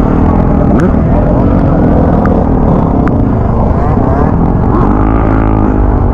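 Motor vehicle engines revving, their pitch rising and falling, with a few sharp clicks.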